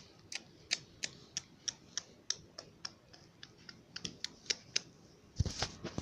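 Light tapping clicks about three a second, like a plastic doll's feet stepping on a hard surface as the doll is walked along, ending in a louder, quicker cluster of knocks and a thud.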